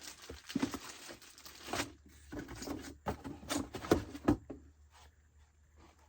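Packaging rustling and crinkling, with scattered light knocks as chainsaw parts are lifted out of their box. The loudest knocks come about four seconds in.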